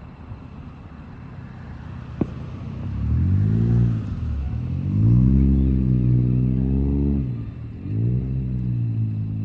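A motor vehicle's engine revving up and dropping back several times, with short dips in between like gear changes. It follows a sharp pop about two seconds in.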